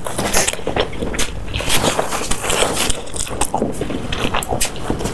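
Close-miked chewing and crunching of food, a dense run of crackles and wet mouth clicks.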